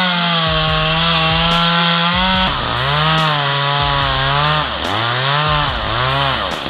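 Two-stroke chainsaw cutting into a tree trunk. The engine holds a steady high pitch at first, then from about halfway on its speed dips and recovers again and again as the chain bites into the wood.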